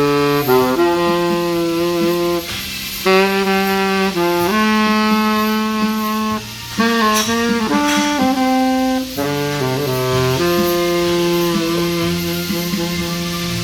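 A solo wind instrument playing a slow melody of long held notes with slides between them, over a steady backing track.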